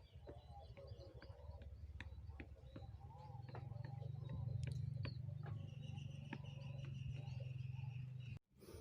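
Steady low hum of a machine's engine, such as the one driving a brick press, with scattered sharp clicks and knocks. Birds chirp over it. The sound cuts off abruptly near the end.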